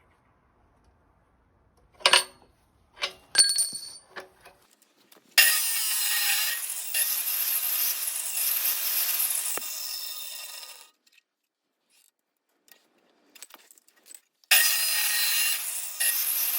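A few sharp clinks with a brief metallic ring, then a saw cutting with a steady rasp for about five seconds. It stops, and starts again near the end.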